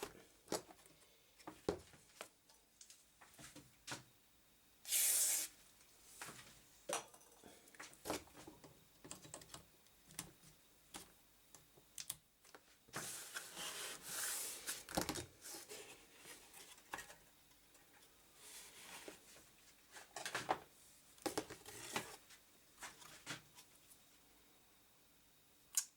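Hands handling and fitting computer parts on a workbench: scattered small clicks, taps and knocks, with a short hiss-like burst about five seconds in and a longer rustling, scraping stretch around the middle.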